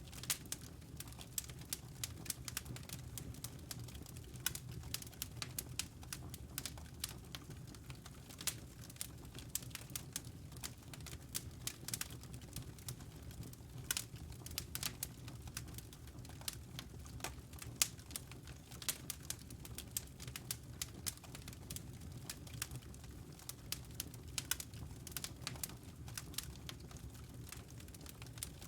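Fireplace fire crackling, with irregular sharp pops and snaps over a low steady rumble.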